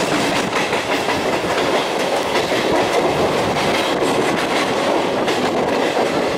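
EMU local train running at speed, heard from on board: steady wheel-and-rail running noise with clickety-clack as the wheels pass over rail joints and points.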